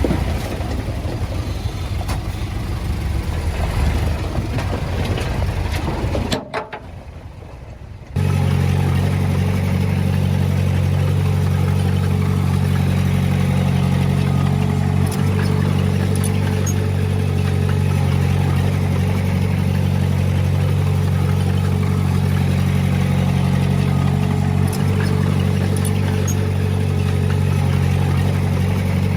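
Diesel engine of heavy earthmoving equipment running. The sound drops out briefly about six seconds in, then a steady, even engine note carries on.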